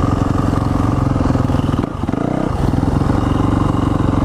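Dirt bike engine running at low steady revs, dipping briefly about two seconds in and then picking up again.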